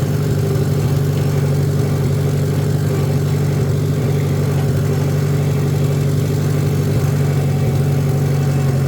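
Farmall tractor engine running steadily at an even working pitch while mowing in second gear.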